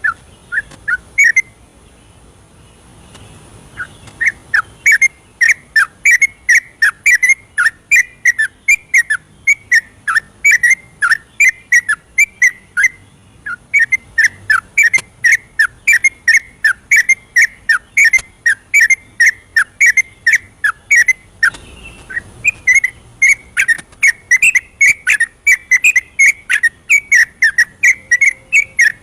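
Yellow-vented bulbul (trucukan) singing a long, rapid run of short whistled chattering notes, several a second, the vigorous nonstop "ropel" song. It starts after a brief pause a few seconds in and carries on with only short breaks.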